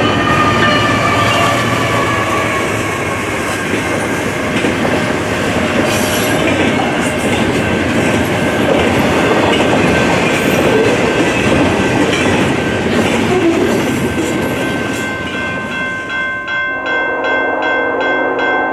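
A double-stack container freight train rushing through a level crossing at speed, wheels clattering over the rails, with high tones sliding slightly lower in the first few seconds. Near the end the train noise drops away and the crossing's warning bell rings in rapid, even strokes.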